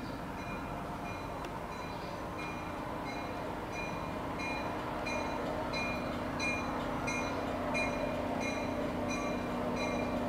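Commuter passenger train pulling slowly into a station, its bell ringing about twice a second over a rumble and hum that grow louder as the train comes closer.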